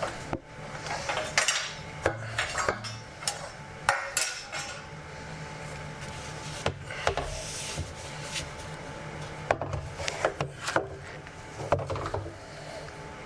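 Irregular metallic clinks and knocks of a metal part being handled and test-fitted on a skid steer, in clusters of sharp strikes, over a steady low hum.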